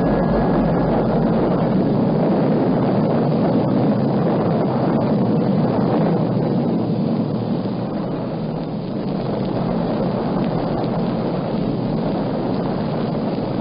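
Steady, deep rumbling roar with faint crackles, the drawn-out rumble of a nuclear explosion.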